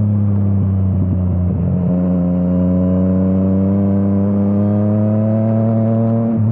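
Yamaha MT-09's three-cylinder engine through an Akrapovič exhaust, running under way. The note breaks briefly about a second and a half in, then climbs slowly and steadily in pitch as the bike accelerates, with another short break near the end.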